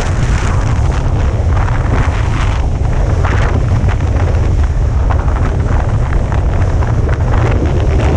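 Wind buffeting an action-camera microphone: a loud, steady low rumble with a rushing hiss on top that swells briefly now and then.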